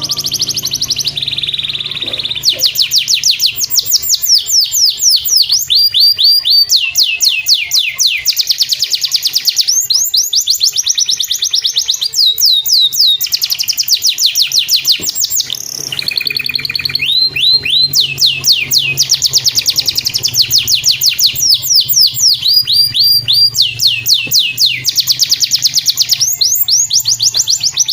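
Domestic canary singing long, fast trills made of rapid falling notes, one phrase after another with short breaks between them, over low background music.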